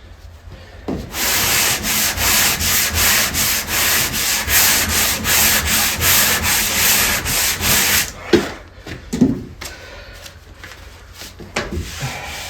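Hand sanding: abrasive paper on a sanding block rubbed in quick back-and-forth strokes, about two or three a second, across filler on wooden hull planking to fair the plank joins. The strokes stop about eight seconds in, followed by a couple of light knocks.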